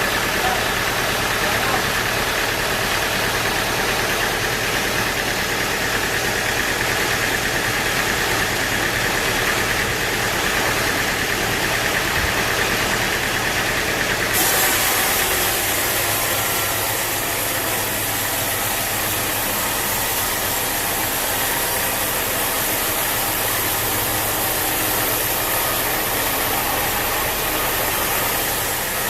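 Sawmill machinery running steadily, an engine-like drone under a constant hiss. About halfway through, the hiss abruptly turns brighter and stays that way.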